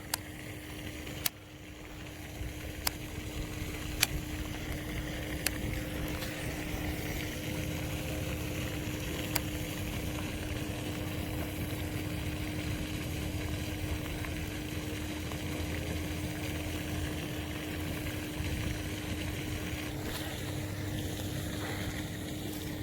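Steady low mechanical hum with one constant tone, and a few sharp clicks in the first ten seconds.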